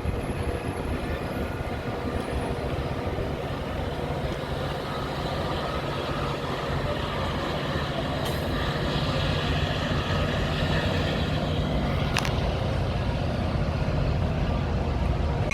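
Metra commuter train approaching, a steady low rumble that slowly grows louder, with one sharp click about twelve seconds in.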